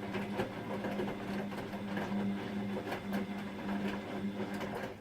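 Bosch Maxx 6 front-loading washing machine running its wash cycle: a steady motor hum with a light clatter from the turning drum. The machine is stuck with its timer at 00:01 and keeps washing instead of going on to the spin, which the owner takes for a software bug.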